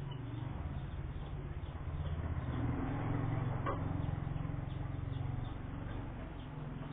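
Faint lovebird chirps over a steady low rumble, with a single sharp click about three and a half seconds in.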